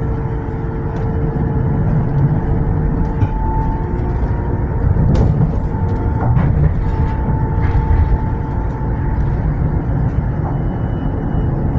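Tram running on its rails: a steady rumble with a few sharp clicks around the middle.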